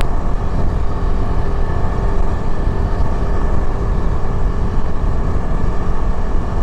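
Yezdi Adventure motorcycle's single-cylinder engine running steadily while riding at a constant pace, mixed with a heavy low rush of wind and road noise.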